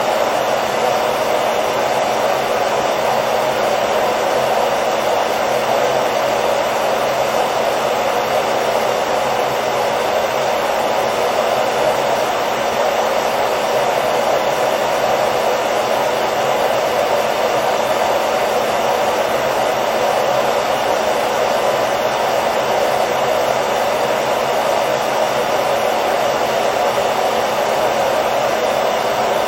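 Hair dryer blowing steadily, a continuous even whoosh with a faint motor hum, used as white noise to lull a baby to sleep.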